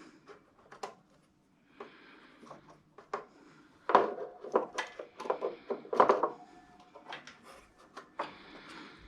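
Hand tools and small engine parts being handled: scattered clicks, knocks and rustling, with louder knocks about four and six seconds in.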